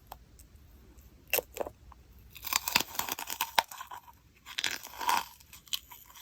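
Hard candy-coated freeze-dried strawberry tanghulu being bitten and chewed: crisp crunching in several short clusters with quiet gaps between.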